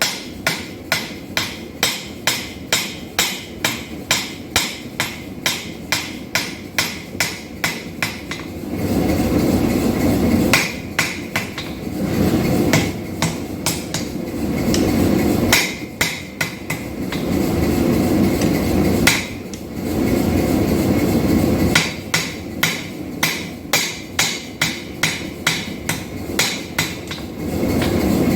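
Hammer blows on hot steel at the anvil, evenly paced at about three a second. From about nine seconds in, a steady rushing noise comes and goes in spells of a few seconds, with scattered metallic clanks in between.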